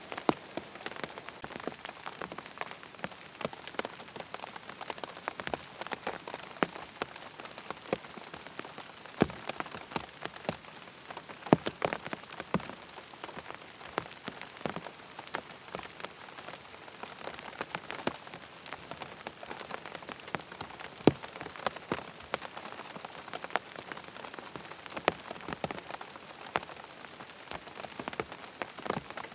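Steady rain falling, with many sharp, irregular drops ticking close by over an even hiss.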